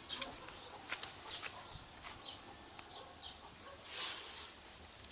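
Footsteps and scattered light clicks on the ground, with a few short, faint bird chirps and a brief rustle about four seconds in.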